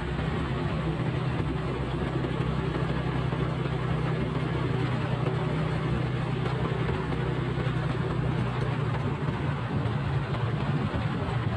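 Motorcycle engine running steadily while riding at an even pace, a constant low hum over a steady rush of road noise.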